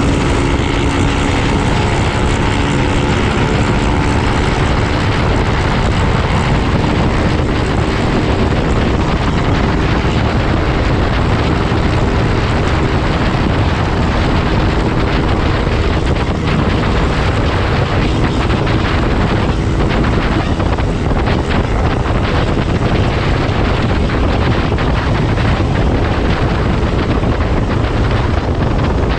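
Motorcycle engine running while riding, buried under heavy wind noise on the microphone; a steady engine hum is clearest in the first few seconds.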